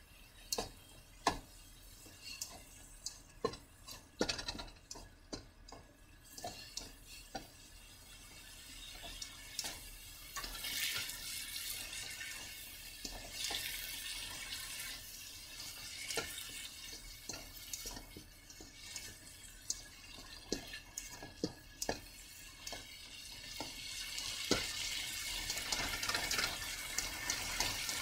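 Ground meat and diced tomatoes sizzling in a wok, with a slotted spatula scraping and clicking against the pan as it is stirred. The sizzle gets louder about ten seconds in and again near the end.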